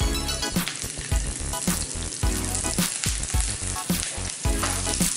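Sliced shallots sizzling as they fry in hot oil in a pan, with background music underneath.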